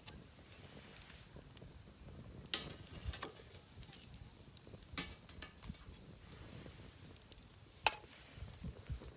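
Firewood burning in a campfire stand, crackling and popping: three sharp loud pops spread through, with smaller crackles between them over a faint hiss of flame.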